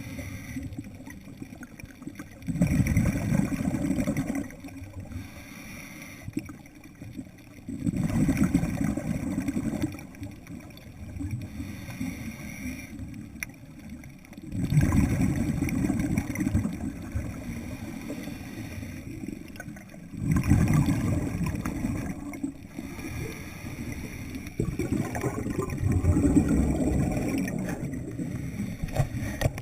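Scuba diver's exhaled bubbles from the regulator, heard underwater: five bubbling bursts of about two seconds each, coming every five to six seconds with the breathing, with quieter hissing between them.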